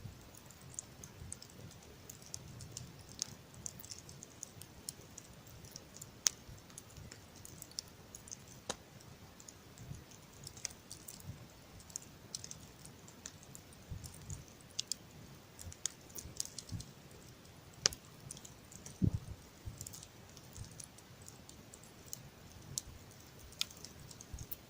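Wood campfire crackling, with sharp, irregular pops and snaps over a low rumble.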